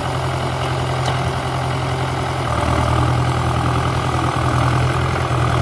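Rebuilt 1959 Ford 881 four-cylinder diesel tractor engine running steadily, a little louder from about halfway through.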